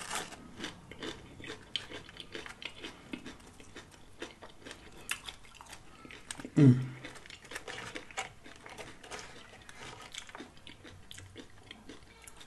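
Close-up chewing and crunching of tortilla-chip shrimp nachos, with many small crackles and wet mouth sounds. About six and a half seconds in, the eater gives a brief falling vocal hum.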